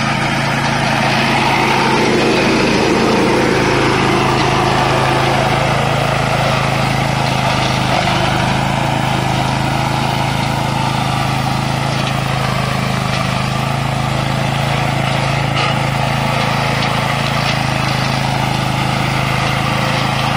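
A 13 hp Tosaka petrol engine on a radio-controlled robotic lawn mower runs at a steady working speed while the mower cuts its way through tall grass and weeds.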